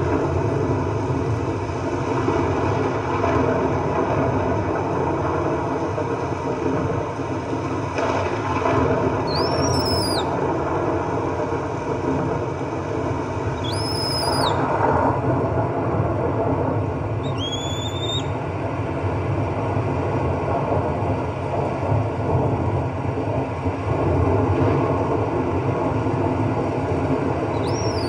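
Steady rush of heavy rain, with a baby monkey giving four short, high-pitched squeals, each rising then falling, a few seconds apart.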